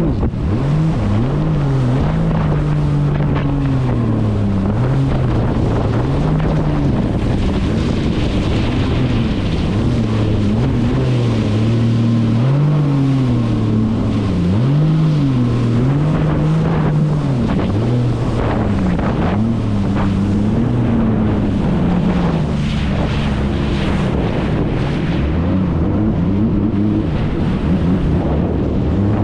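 Jet ski engine running under way, its pitch rising and falling again and again as the throttle is worked, with wind buffeting the microphone and water slapping against the hull.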